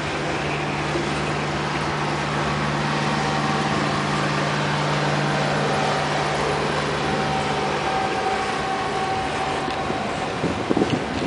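Freight train of refrigerated boxcars rolling past: a steady rolling noise with a low hum that fades about eight seconds in, and a few clunks near the end.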